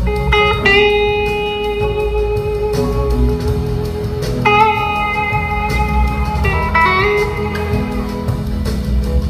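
Electric slide guitar soloing in long, sustained notes, some of them sliding in pitch, over the band's bass and drums in a live blues-rock mix.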